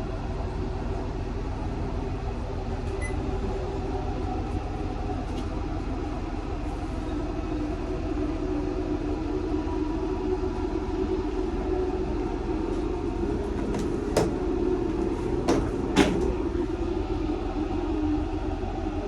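Setsugekka diesel railcar running along the line, heard from inside the car as a steady rumble and drone. A few sharp clicks come near the end.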